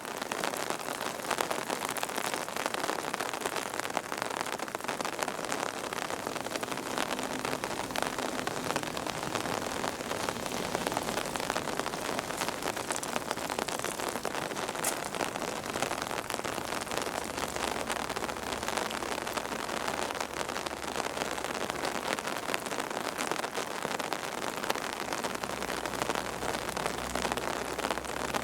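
Steady rain falling and pattering on surfaces during a typhoon.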